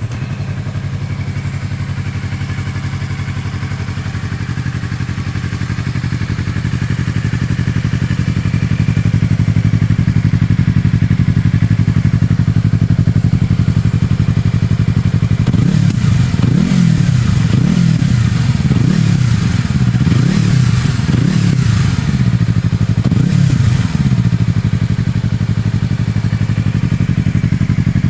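Yamaha MT-25's parallel-twin engine with an aftermarket megaphone muffler, idling steadily, then revved up and down repeatedly for about eight seconds midway before dropping back to idle.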